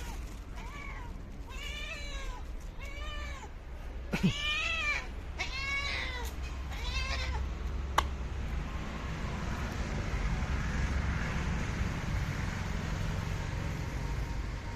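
Domestic cat giving a string of about ten short meows, each rising then falling in pitch, one every half second or so over the first seven seconds. A sharp click comes about eight seconds in, followed by a steady rushing noise.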